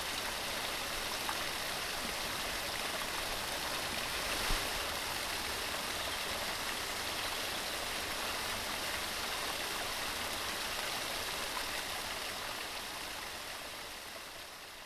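Mountain stream running, a steady, even rush of water, with one brief low thump about four and a half seconds in. The sound fades out gradually near the end.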